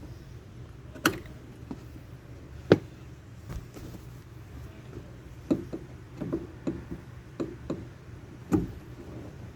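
A series of sharp knocks and clicks from hand work on a pickup's door and its window-motor parts, over a steady low hum: two separate knocks, then a quicker run of them in the second half.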